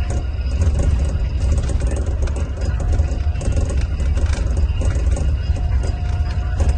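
Scania coach engine running with a steady deep drone, accompanied by a continuous light rattling clatter.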